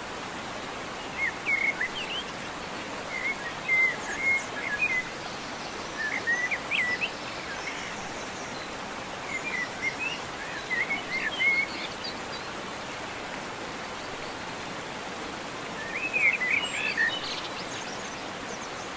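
Birds chirping in short clusters of quick rising and falling notes every few seconds, over a steady hiss of outdoor background noise.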